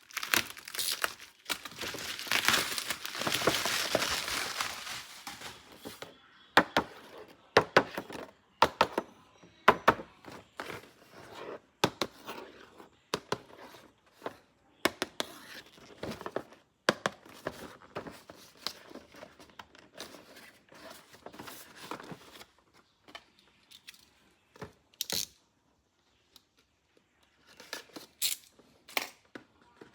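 Packaging being torn open and crinkled for the first few seconds, then a long string of separate sharp clicks and knocks as hard toy pieces are handled, with a short pause near the end.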